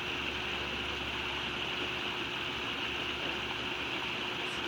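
Steady outdoor background hiss with a brighter high band and a faint steady low hum, unchanging throughout; a brief faint high chirp near the end.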